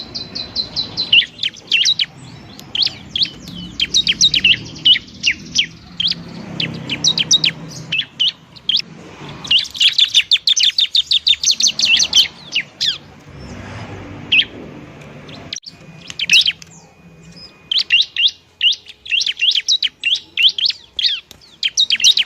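Bar-winged prinia (ciblek) calling excitedly: fast volleys of sharp, high chirping notes, several a second, broken by brief pauses.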